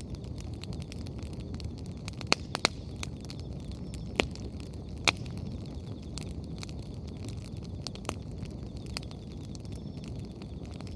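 Wood bonfire burning: a steady low rush from the flames, with scattered sharp pops and crackles from the firewood, the loudest few coming between about two and five seconds in.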